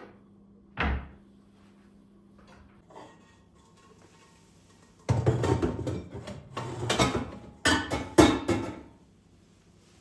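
Household tidying sounds: a single knock about a second in, then several seconds of clattering, with sharp knocks like cupboard doors and objects being handled and set down.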